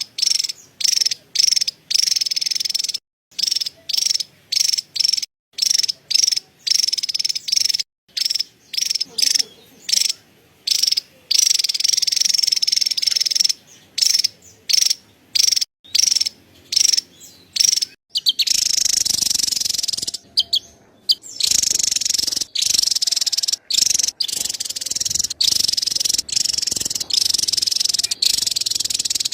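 Javan tesia chattering: runs of high-pitched calls in short bursts with brief gaps. From about 18 seconds in, the chatter runs almost without a break, over more background noise.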